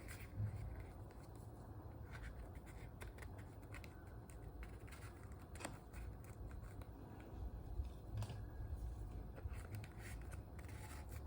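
Small handling noises: scattered light clicks and scratches of leather goods and packaging being handled close to the microphone, over a low background rumble.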